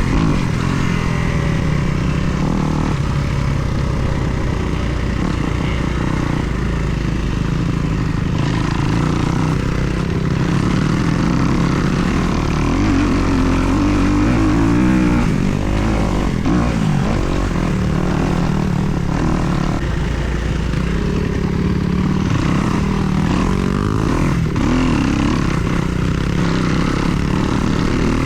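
Kawasaki KX250 four-stroke single-cylinder dirt bike engine running under way, its revs rising and falling with the throttle.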